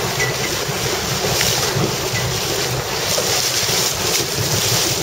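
Steady wind buffeting the microphone, with water and waves rushing against a boat.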